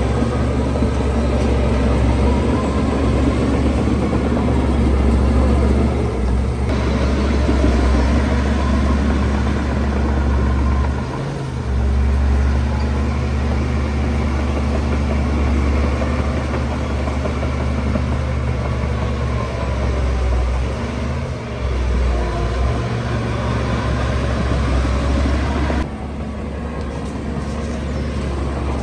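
Heavy diesel construction machinery running steadily, a deep engine drone. The sound changes abruptly about a quarter of the way in and again near the end.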